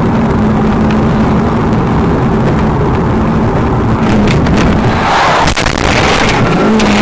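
A car's engine and road noise, steady and loud. About four to five seconds in comes a louder rushing surge with a few sharp knocks. Near the end an engine tone starts falling in pitch.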